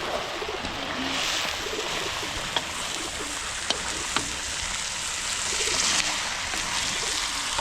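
Steady rain falling, with three short sharp taps about two and a half, three and a half and four seconds in.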